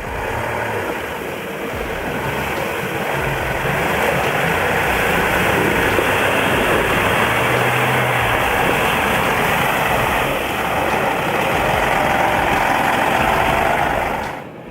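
Heavy vehicle engine running steadily and loudly, cutting off abruptly near the end.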